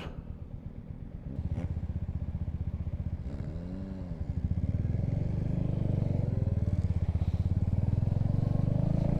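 Motorcycle engine running and pulling away, getting louder in two steps, about one and a half and about four and a half seconds in. A short rising-and-falling tone comes just before the second step.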